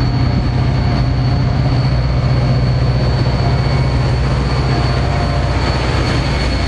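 Steady low hum of an idling train locomotive, with a thin high whine running over it.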